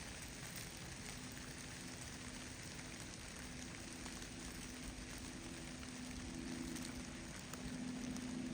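Steady hiss and patter of wet snow falling through the woods in a snowstorm, with a faint low hum that grows a little louder near the end.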